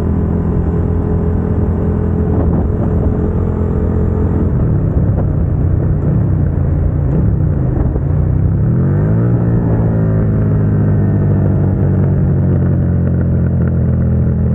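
Suzuki SV650's 645 cc V-twin running through an aftermarket Dominator GP exhaust under way. It holds a steady note, then the revs dip and waver for a few seconds. About eight seconds in they climb quickly and hold steady at a higher engine speed.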